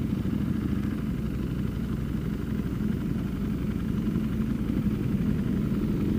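Vehicle engine running steadily at low revs, a low even rumble with no revving.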